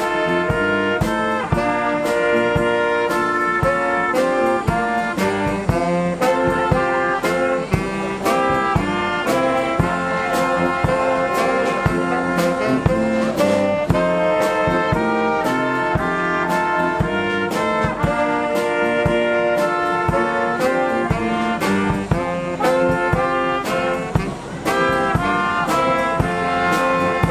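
Brass band music: several brass instruments playing held, changing notes over a steady drum beat.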